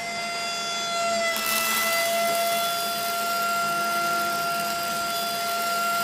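Small electric motor whining steadily as it drives the tipping frame that raises a model trailer bed. From about a second in, a fine hiss of wheat grain sliding out of the tilted bed joins it.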